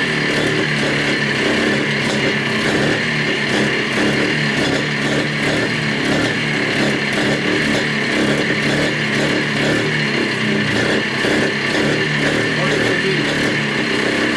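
Montesa Cota 247's single-cylinder two-stroke engine running steadily, brought back to life after decades laid up.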